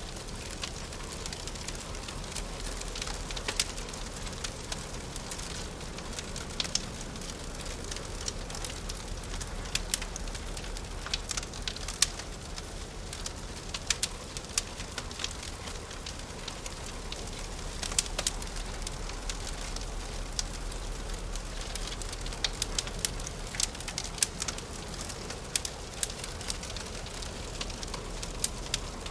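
Wood fire crackling in a fireplace: a steady soft hiss with irregular sharp pops and snaps, a few of them louder than the rest.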